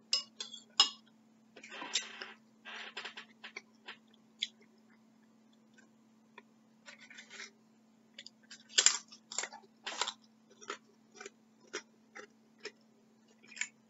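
Close-up mouth sounds of someone eating chicken noodle soup: wet chewing and lip smacking, heard as a scatter of short clicks and smacks, with a busier patch near the start and a run of sharper smacks about two thirds of the way in.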